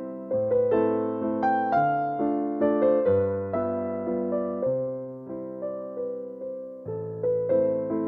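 Gentle background piano music: slow struck notes and chords that ring and fade, one after another.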